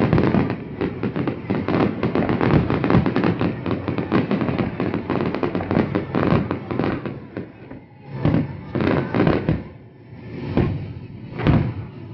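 Fireworks display: a dense, rapid volley of shell bursts and crackling, thinning about seven seconds in to a handful of separate booms roughly a second apart.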